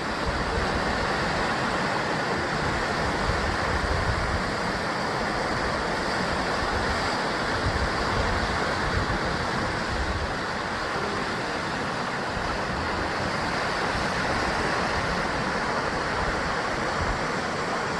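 Ocean waves breaking and surging against the basalt rock columns of a rocky shore, a continuous rushing wash with only gentle swells in loudness.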